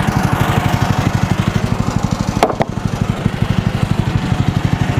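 The MechMaxx SM32 sawmill's small gas engine idling, a steady rapid chugging of about a dozen pulses a second. A brief sharp sound cuts in about halfway through.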